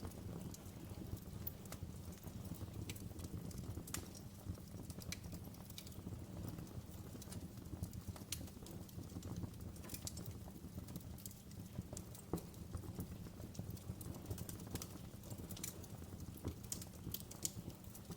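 Wood fire crackling in a fireplace: irregular sharp pops and snaps of burning wood over a steady low rumble of the flames.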